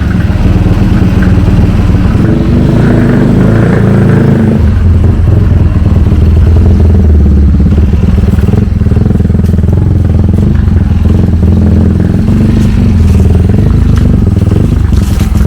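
A Honda CT70 mini-bike running on its swapped-in 212cc single-cylinder four-stroke engine, a loud, continuous motorcycle engine note that deepens and gets stronger about four to five seconds in.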